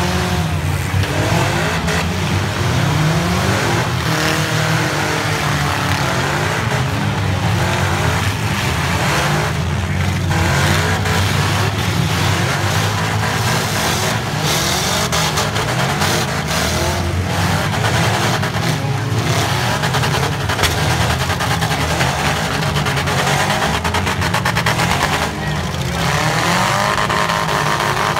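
Several four-cylinder demolition derby cars running together, their engines revving up and down, with tyres squealing.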